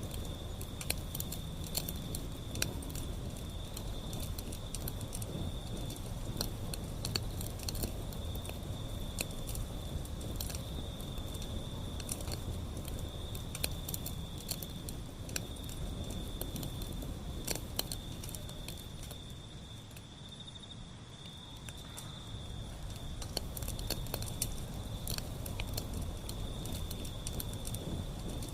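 Wood fire burning, with irregular crackles and pops over a low steady rumble. A steady high-pitched insect-like trill sounds alongside it, and the fire grows briefly quieter a little past the middle.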